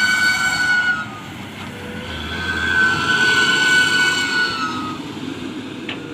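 Turbocharged engine revved twice through a loud exhaust, with a high turbo whistle riding over the rumble. The whistle sags in pitch as each rev dies away, about a second in and again near the end.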